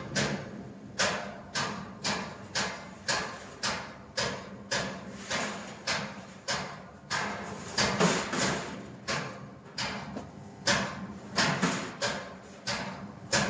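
Rhythmic knocks, about two a second, each with a short fading ring, as from repeated hammer blows.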